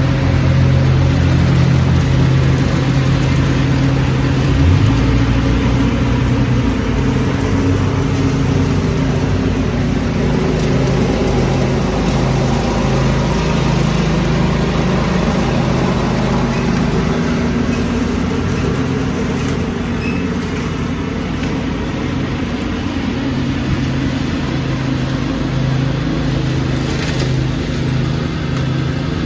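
Small engine running steadily while vacuuming leaves, its low hum under a broad rush of noise, with a slight change in the engine note about five seconds in.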